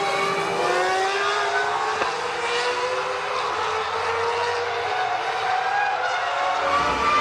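Formula One V10 racing engines running at high revs, the main note climbing slowly as a car accelerates, then dropping near the end.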